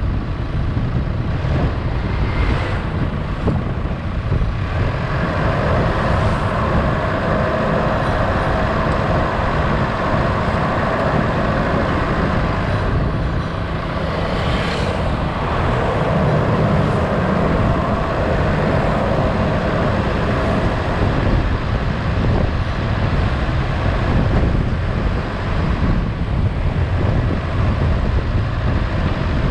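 A road vehicle moving, its engine and road noise steady, with wind buffeting the microphone.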